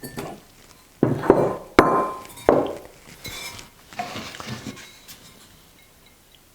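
Ceramic cups clinking and knocking against a hard surface as they are handled: four sharp ringing clinks in the first couple of seconds, then a few softer taps.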